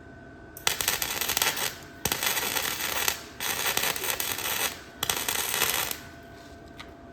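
Electric arc welder laying short welds: four bursts of dense, sputtering crackle, each about a second long with brief pauses between them, joining a trailer jack's steel mount to the wagon frame.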